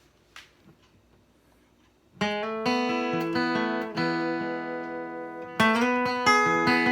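Near silence with a faint click, then an acoustic guitar starts about two seconds in, plucked chords and single notes ringing out, with a fresh strong strum a little after halfway.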